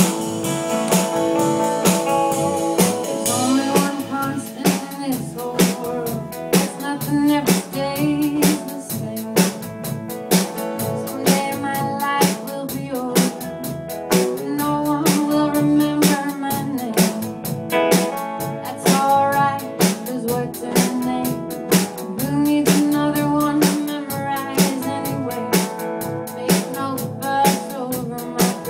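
Live band music in a blues style: guitar playing over a drum kit keeping a steady beat.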